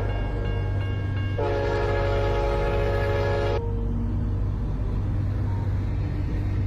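Train horn blowing a long blast that starts about a second and a half in and cuts off about two seconds later, over the steady low rumble of the moving train.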